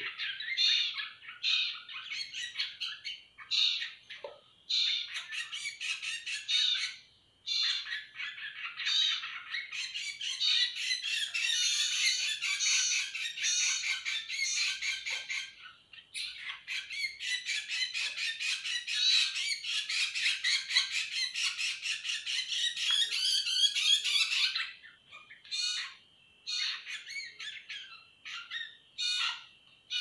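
Fledgling birds begging for food: a rapid stream of harsh, high-pitched chirps and squawks that comes in long runs broken by short pauses.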